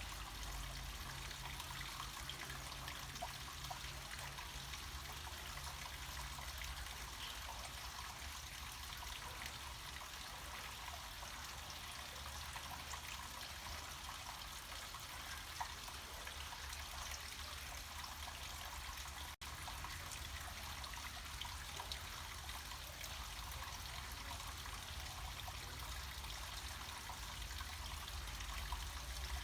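Small mountain stream of water flowing steadily downhill, a continuous trickling rush, with a momentary dropout about two-thirds of the way through.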